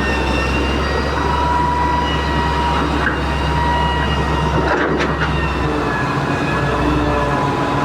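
Heavy-duty excavator at work: a steady diesel engine rumble with high, slightly wavering whines over it, and a couple of short knocks. The low engine note drops near the end.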